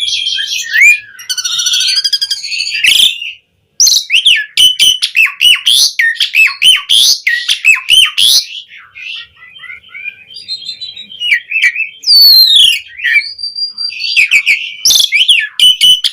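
Asian pied starling singing a long, varied song of clear whistles, quick chattering notes and scratchy phrases. The sound cuts out briefly about three seconds in.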